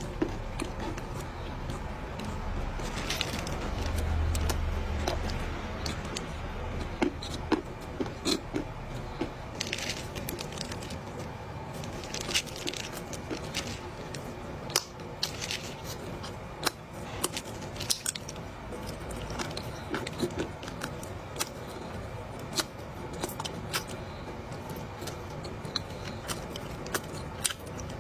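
A mouthful of dry clay being chewed close to the microphone: crisp, irregular crunches and crackles, several a second, over a soft, moist mouth sound.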